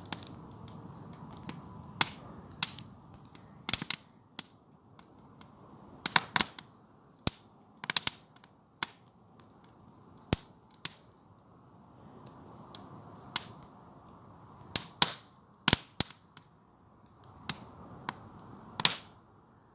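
Wood campfire burning, with irregular sharp pops and snaps from the firewood, some in quick clusters, over a faint low hiss.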